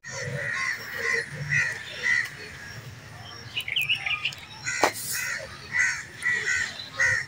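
Birds calling: a string of short, repeated calls, several in quick succession, with a few higher chirps near the middle and a single sharp click about five seconds in.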